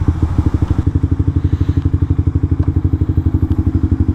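Suzuki GSX-R125's single-cylinder engine idling with an even, rapid pulse.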